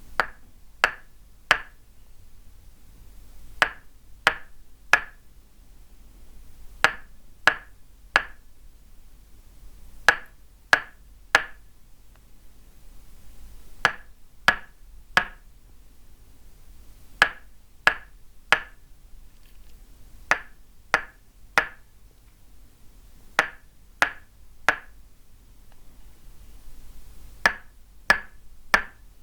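Tok sen: a wooden mallet striking a wooden peg held against the body, each strike a crisp knock with a short pitched ring. The strikes come in sets of three, a little over half a second apart, with a pause of about two seconds between sets.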